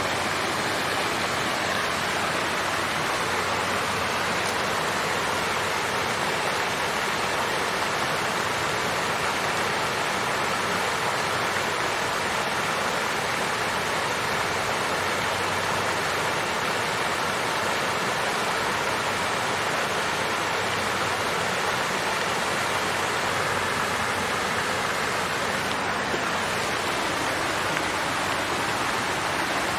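Water fountain running: a steady splashing flow of water without pause.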